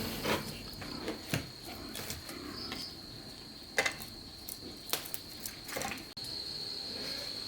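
Crickets chirring steadily in a high, thin tone, with a few scattered sharp clicks and knocks, the loudest a little before four seconds in and another about five seconds in.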